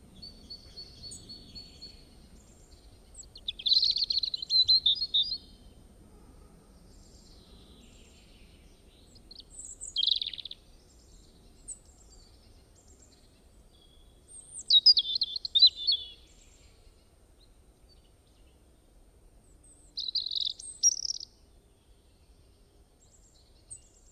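Songbird singing: several loud bursts of chirping song, each a second or two long, roughly every five seconds, with softer chirps in between.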